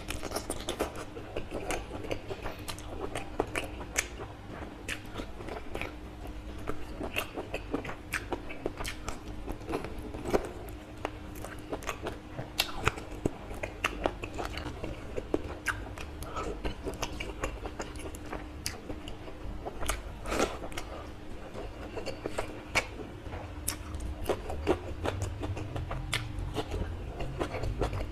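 Close-miked mouth sounds of a man eating chicken curry and rice by hand: wet chewing, lip smacks and many quick irregular clicks, with a faint steady hum underneath.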